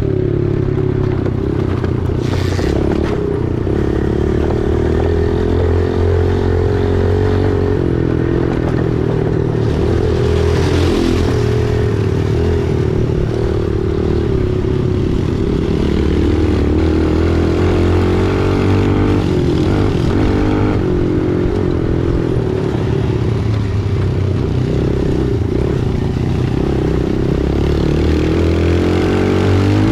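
Small single-cylinder four-stroke dirt bike engine running steadily while riding along.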